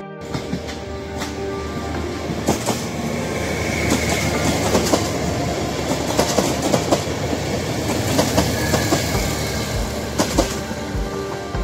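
Passenger train passing close by, an SKPL railcar hauling PKP Intercity coaches: a steady rumble with the wheels clacking over rail joints again and again.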